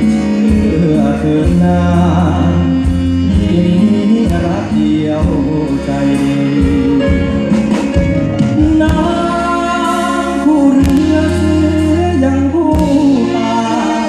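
Live band playing a slow Thai song, with a singer's voice over the accompaniment and a steady bass beat.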